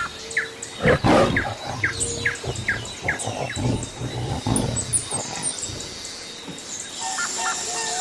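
Birds calling: a run of short, falling whistled notes, about three a second for the first few seconds, then faint high chirps and a different repeated call near the end. Low rumbling swells sound underneath.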